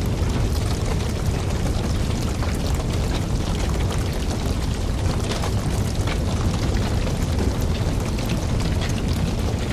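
Wood campfire burning: a steady low rush of flame with frequent small crackles and pops throughout.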